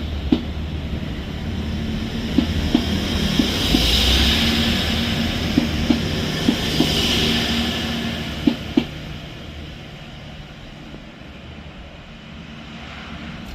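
Class 180 Adelante diesel multiple unit moving past on the main line: a rumble and hiss that build to a peak mid-way, with a string of sharp wheel clicks over the rail joints, then fading away as the train recedes.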